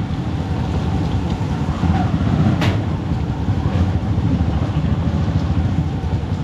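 Motorcycle running under way: a steady low rumble of engine, wind and road noise, with one brief sharp click about two and a half seconds in.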